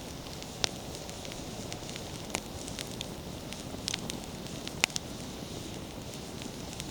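Wood fire burning: a steady low rush of flame with sharp, scattered crackles and pops of the burning firewood. The two loudest pops come about two-thirds of a second in and just before five seconds in.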